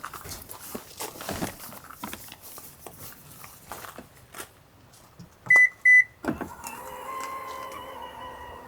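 Light handling clicks and rustles, then two short high beeps from the Subaru Forester's power rear gate, and its electric motor starting to drive the gate with a steady hum that sinks slowly in pitch.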